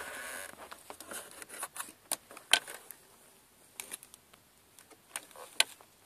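Scattered sharp clicks and light knocks of plastic parts being handled: a car's wiper stalk switch freed from the steering column, before its connector is unplugged.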